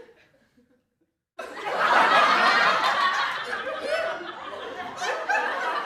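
People laughing, starting abruptly about a second and a half in after a short near-silent gap.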